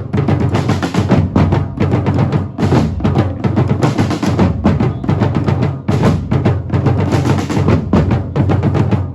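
Music driven by drums and percussion, a dense run of rapid beats with a strong bass drum.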